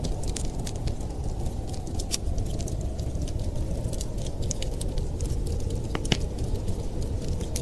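Wood fire crackling in a fireplace: irregular sharp snaps and pops over a steady low rumble, with one louder pop about six seconds in.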